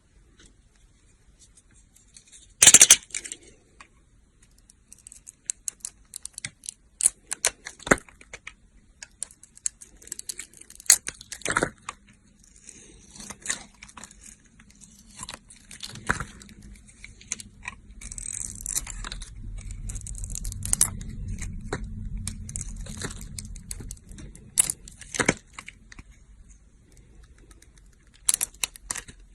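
A knife cutting dry soap: crisp scrapes and crackly crunches with sharp snaps, the loudest about three seconds in. A low hum runs under the cutting through the middle stretch.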